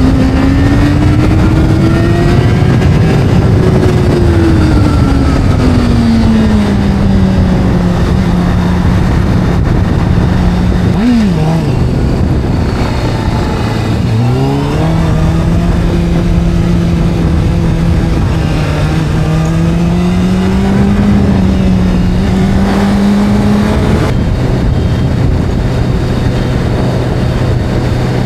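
Video-game motorcycle engine sound under a constant rush of noise, the engine note sliding down and climbing again as the bike speeds up and slows, with two sharp drops in pitch about eleven and fourteen seconds in. Near the end it gives way to a lower, steady drone.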